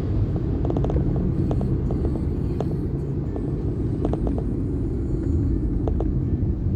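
Steady low rumble of a vehicle moving along a road, with scattered light ticks and rattles.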